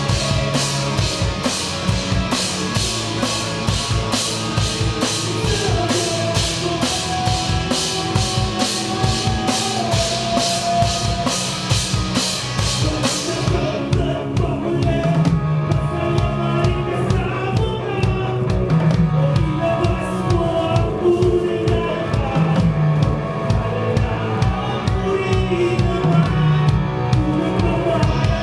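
A live rock band playing, with the drum kit to the fore. The cymbals beat steadily through the first half, then drop out about halfway through while the bass and the pitched instruments play on.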